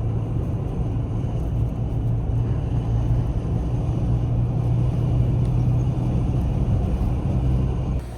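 A motor vehicle's engine and road rumble running steadily, with a strong low hum. It cuts off abruptly near the end.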